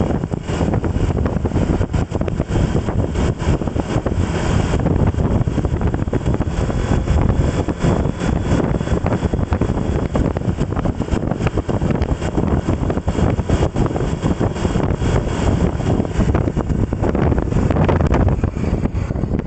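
Heavy wind buffeting the microphone while riding at speed, with road and engine noise underneath, steady and loud throughout.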